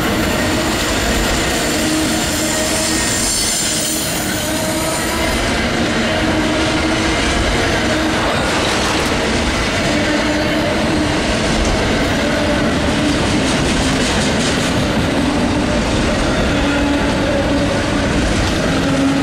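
Amtrak Auto Train autorack cars rolling steadily past: steel wheels running on the rails, with squealing tones from the wheels that fade in and out. A high hiss fades out after about five seconds.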